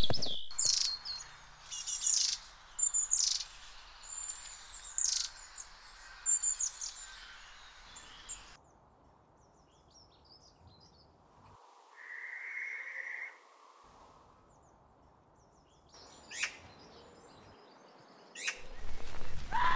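Wild birds calling with many short, high, quick chirps, then a stretch near silence broken by one short steady note. Near the end come a few sharp, harsh calls from a magpie.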